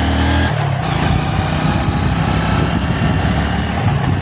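Motorcycle engine running during a ride, with rough rumbling noise on the microphone. About half a second in, the steady engine note gives way to a rougher, choppier sound.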